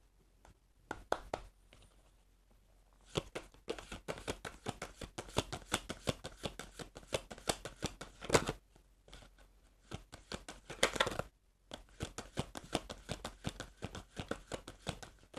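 Rider-Waite tarot cards being shuffled by hand: a few light clicks, then from about three seconds in a dense run of rapid card flicks and slaps, with a brief pause near the end before they resume.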